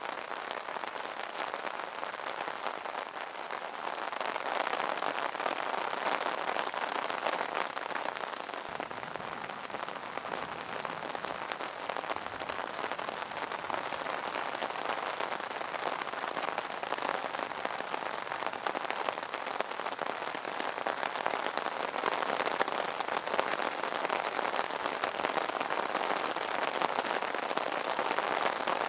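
Steady rain pattering on an umbrella canopy, a dense even patter of many small drop hits.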